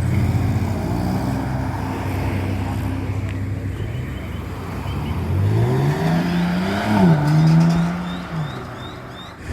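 Car engine running at a low, steady speed, then revving up hard about five seconds in as the car accelerates away, with a short drop in pitch near seven seconds like a gear change before it pulls on and fades.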